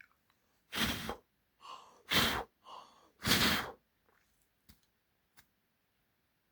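Three strong puffs of breath blown close to the microphone, each about half a second long, with shorter, softer inhales between them.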